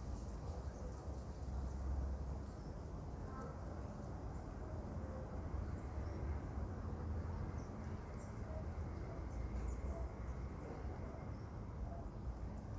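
Outdoor ambience: a steady low rumble, like wind on the microphone, with scattered short, very high-pitched chirps.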